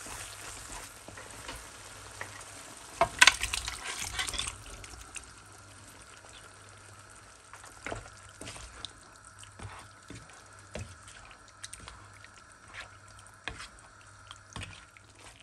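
Mutton ghee roast frying in a pan, sizzling steadily, with a loud surge of sizzling about three seconds in that lasts over a second. Scattered clicks of stirring against the pan follow.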